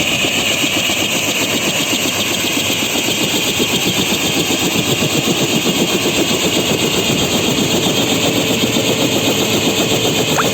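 Bell 505 Jet Ranger X helicopter running close by: rapid, even thumping of its two-bladed main rotor over the whine of its turboshaft engine.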